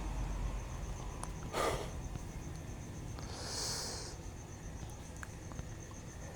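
A person sniffing and breathing close to the microphone, two short breaths: a sharp one about one and a half seconds in and a softer, hissy one around three and a half seconds in. A faint, evenly pulsing high chirp, like crickets, runs underneath.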